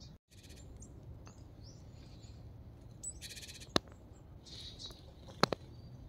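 Small woodland songbirds calling: scattered short chirps and two brief buzzy churring calls. Two sharp knocks break in, the louder one near the end.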